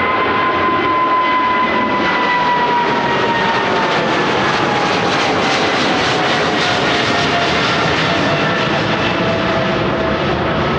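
Jet airliner's engines going by close at a runway: loud, steady engine noise with a whine that slides slowly down in pitch as the aircraft passes.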